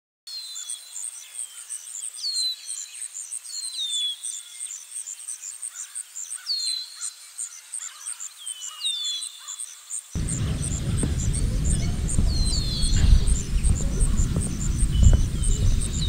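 Birdsong: short falling whistled calls repeated every second or two, over a high chirp that repeats about three times a second. About ten seconds in, a loud low rumble starts abruptly and runs beneath the birds.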